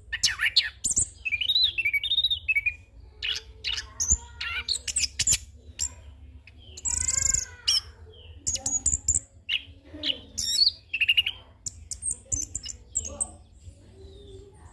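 Chestnut-capped thrush (anis kembang) singing a rapid, unbroken song of varied whistles, trills and harsh notes, full of mimicked calls of other birds.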